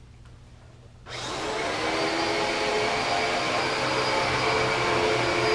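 Dyson vacuum cleaner switched on about a second in: the motor spins up with a rising whine, then runs steadily with a strong rushing airflow.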